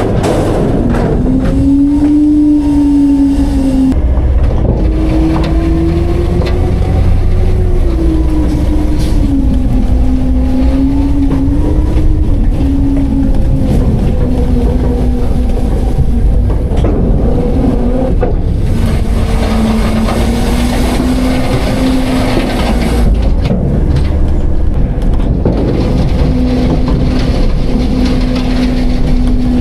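Autocar-Heil Freedom front-load garbage truck's diesel engine running loud and steady, its pitch rising and falling slowly with a heavy low rumble underneath.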